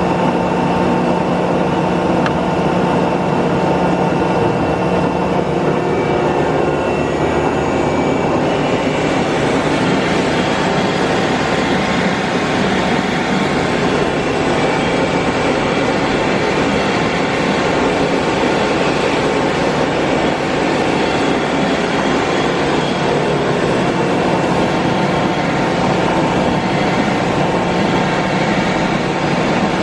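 Cincinnati Twin Grip centerless grinder running under power: a steady machine hum and whine with a constant low tone. About nine seconds in, the sound gets fuller and noisier.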